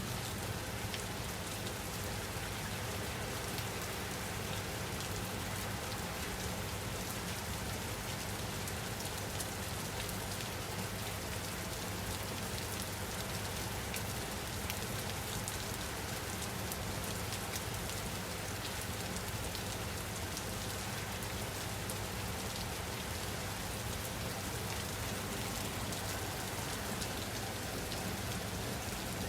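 Steady rain falling on a surface, an even hiss dotted with the patter of individual drops, over a low steady rumble.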